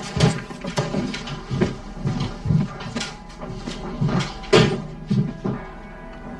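A run of short, dull knocks, about two a second, over a faint steady tone.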